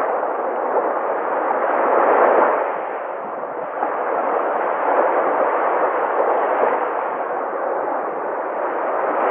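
Sea surf: a continuous rush of waves that swells and eases every few seconds.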